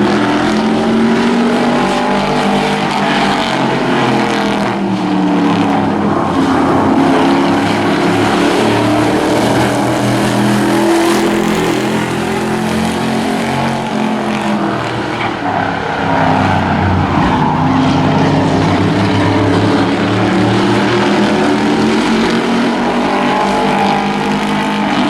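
Several hobby-class race trucks running flat out in a heat race, their engines overlapping, with pitches rising and falling as they accelerate and lift through the turns.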